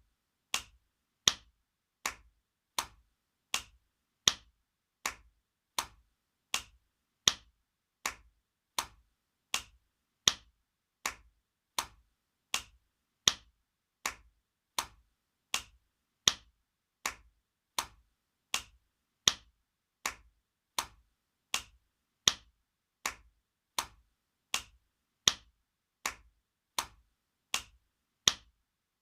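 Spanking sound effect: sharp slaps of a hand on skin, repeated at an even pace of about three every two seconds, some smacks louder than others.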